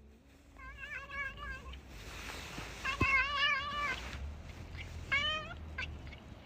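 A cat meowing three times in long, wavering calls, the last one short.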